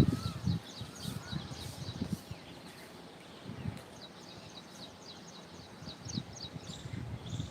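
A bird chirping in quick runs of short high notes, about five or six a second, at the start and again for a few seconds near the end, with scattered low thumps, the loudest right at the start.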